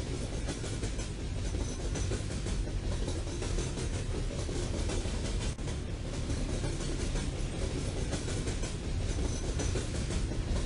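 Coal train rolling past with a steady low rumble and the repeated clatter of wheels on the rails.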